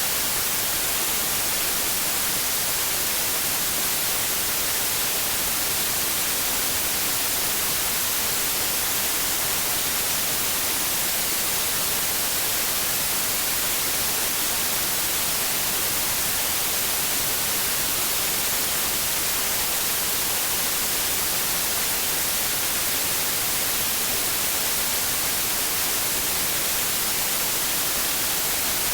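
Steady white noise: an even hiss, brightest in the high frequencies, that does not change.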